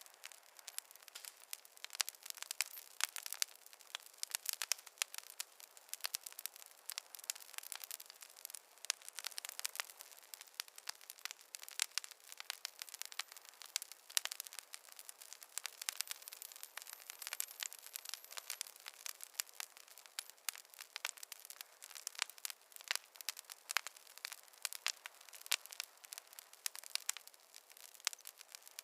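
Fireplace fire crackling: dense, irregular sharp pops and snaps, several a second, over a soft hiss.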